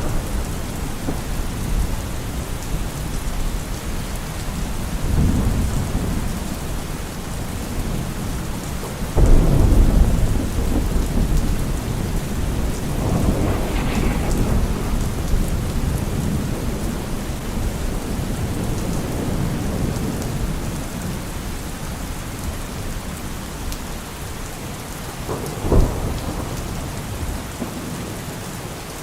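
Steady rain with thunder: low rolling rumbles, a sudden loud clap about nine seconds in that rumbles on for several seconds, and a short, sharp clap near the end.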